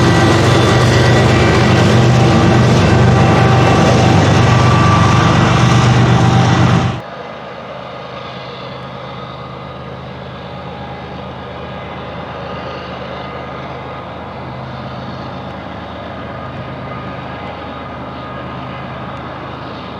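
A CSX freight train passes close by, with loud wheel-and-rail noise and diesel locomotive engine tones. About seven seconds in the sound drops abruptly to a much quieter steady train noise.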